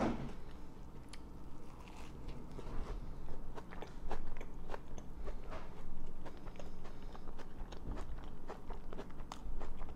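A person chewing a juicy mouthful of sandwich (toasted gluten-free bread with sprouts and tomato), close to a clip-on microphone: a run of many short mouth clicks and smacks.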